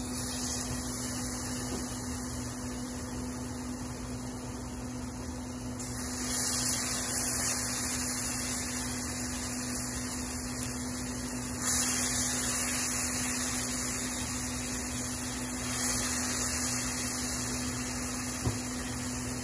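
Marinated chicken pieces sizzling in a hot frying pan, the sizzle jumping louder three times as each new piece is laid in. A steady electrical hum lies underneath.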